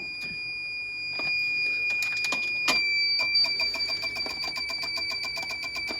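Sump pump alarm sounding a steady high-pitched tone that switches about three seconds in to rapid beeping, about five or six beeps a second. It keeps going even after being turned off and unplugged, while the pump is not pumping the water out. A few light clicks come in the first three seconds.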